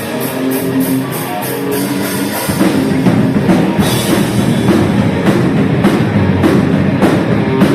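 Heavy metal music on drum kit and guitar: held guitar notes at first, then the full band comes in louder about two and a half seconds in.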